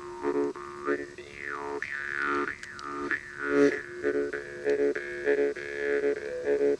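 Jaw harp (vargan) played in a steady rhythm: a buzzing drone on one pitch, with its overtones sweeping up and down as the player's mouth shape changes.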